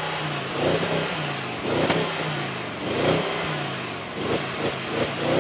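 Audi S6's V8 engine revved in a series of throttle blips, the pitch jumping up and falling back each time, with quicker, shorter blips near the end.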